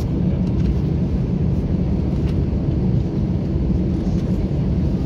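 Steady low rumble inside the cabin of an Airbus A321-200 on the ground after landing: the engines running at low power and the aircraft rolling as it taxis toward its stand.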